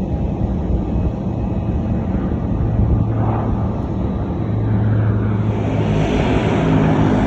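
Jet airliner engine noise: a continuous low rumble with a steady hum, growing louder with a rising hiss from about five seconds in.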